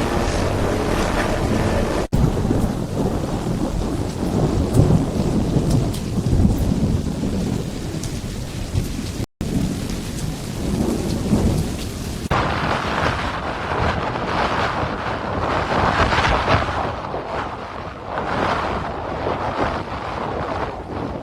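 Storm noise: a loud, low rumbling roar with heavy rain, broken by abrupt cuts about two and nine seconds in. After a cut about twelve seconds in it turns brighter and hissier.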